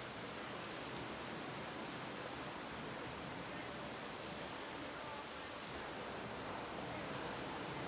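Ocean surf washing on a beach: a steady, even hiss of waves with no single breaker standing out.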